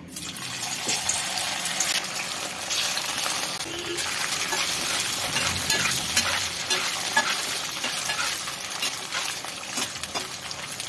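Soya chap pieces hitting hot mustard oil in a steel kadhai: the oil sizzles at once and keeps frying steadily. A metal spatula stirs the pieces, clicking and scraping against the pan.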